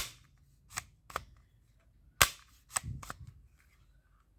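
A series of about seven sharp clicks at irregular spacing, the loudest at the start and about two seconds in.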